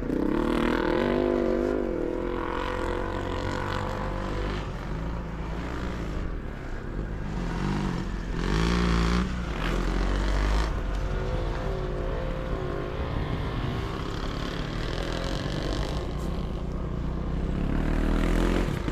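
Motocross sidecar motorcycles running on the track, engines revving up and down with several overlapping, swelling louder a few times.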